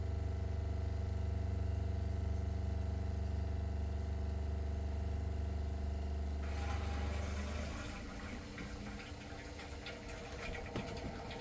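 RV water pump running with a steady hum as it draws antifreeze from a jug. About six seconds in, a rougher hissing rattle comes in and the low hum drops out a second later, as the jug is drawn empty and the pump starts pulling air.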